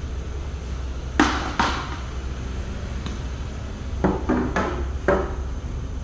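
Sharp knocks in a panel-beating job: two about a second in, then four more in quick succession about four to five seconds in, over a steady low hum.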